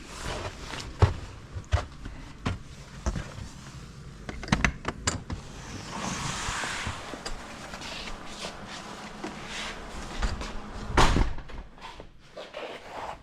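Scattered knocks and thuds at an uneven pace, with a hiss lasting about a second and a half around six seconds in and a heavy thump just after eleven seconds.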